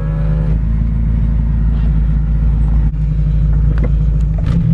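Car engine running steadily: a low, even drone, with a few light clicks near the end.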